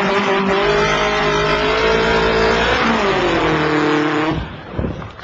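A vocal imitation of a vehicle: one long, steady pitched engine-like sound that drops slightly in pitch about three seconds in and fades out after about four seconds.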